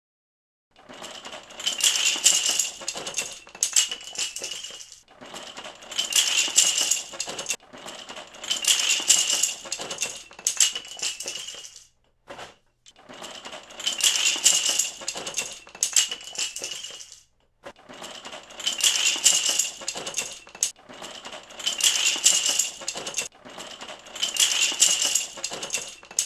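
Loose plastic Lego pieces clattering and rattling in repeated bursts of about two seconds, as if being shaken or rummaged through by hand, with brief breaks between them.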